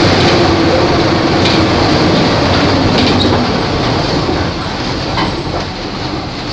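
Volvo B270F bus's diesel engine running under way, its pitch falling over the first three seconds as it eases off, over steady road noise with scattered rattles and clicks.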